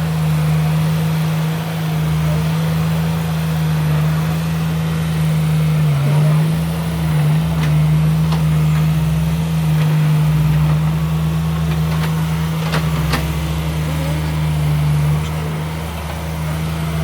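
Heavy diesel earthmoving machinery running steadily, its engine hum dipping briefly twice a little over a third of the way in. Two sharp metallic knocks come close together about three quarters of the way through.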